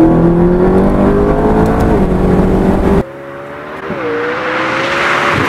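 McLaren 650S twin-turbo V8 accelerating hard, heard first from inside the cabin with the revs climbing steadily and a quick upshift about two seconds in. After a sudden cut a second later it is heard from outside as the car approaches, shifting up once more and growing louder with rising tyre and wind noise.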